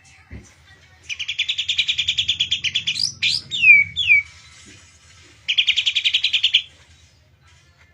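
White-rumped shama (murai batu) calling: a fast rattling run of repeated notes, a few downward-sliding whistles, then a second short rattle. The bird is one its keeper describes as over-birahi, too strongly in breeding condition.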